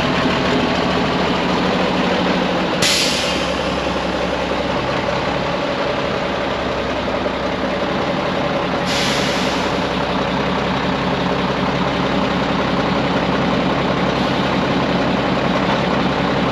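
Mack RD690S heavy diesel truck engine idling steadily. Two sharp air hisses from the truck's air system come about three and nine seconds in.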